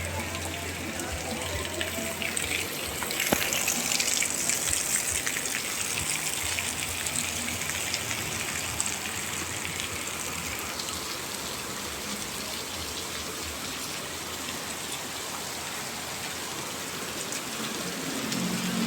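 Rain falling steadily, growing louder about three seconds in and easing off after about ten seconds.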